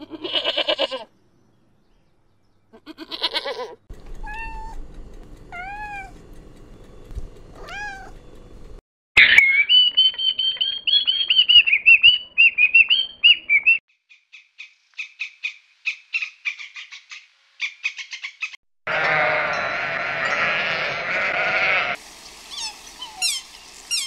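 A string of separate animal calls: a goat bleating in short bursts near the start, then a cockatoo's long harsh, wavering screech of about five seconds in the middle, followed by rapid chirping, a loud noisy stretch and quick falling bird chirps near the end.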